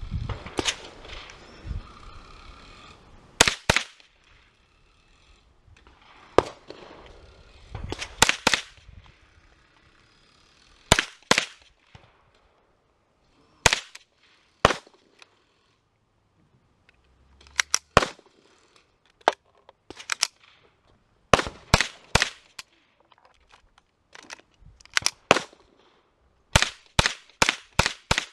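Gunshots fired at an irregular pace: single sharp cracks and quick strings of two to four shots, with pauses of one to three seconds between them. A faster run of shots comes near the end.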